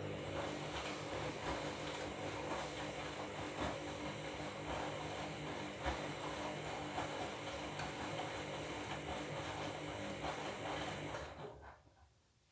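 Washing machine running its drum during the wash: a steady motor hum with many small clicks and rattles and a thin high whine, stopping abruptly about eleven seconds in.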